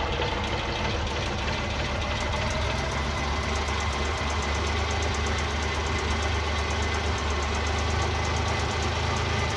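A vehicle engine idling steadily, heard from underneath the vehicle, with a fast, even ticking running through it.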